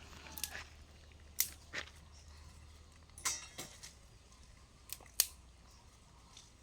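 A few short, sharp clicks and snaps at uneven intervals, with a brief rattling run of clicks about three seconds in.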